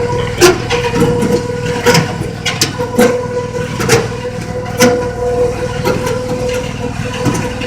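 Train running, with a steady motor whine over a low rumble and irregular sharp clacks and knocks from the wheels and carriage.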